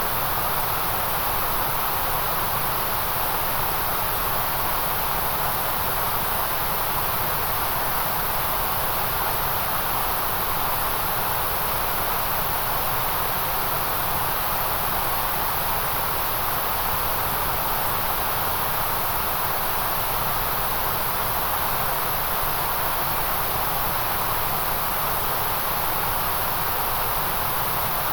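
Steady white noise: an unbroken, even hiss at a constant level, with no rhythm or breaks, its energy heaviest in a mid-pitched band and a bright top hiss.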